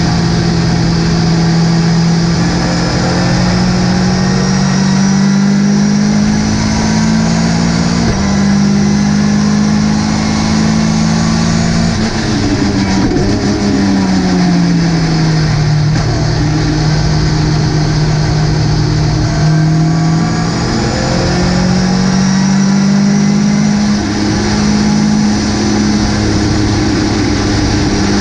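Ginetta GT5 race car engine running hard on track, its pitch climbing and dropping through gear changes. Engine speed falls steadily for a few seconds about halfway through, as when braking for a corner, then climbs again and holds high near the end.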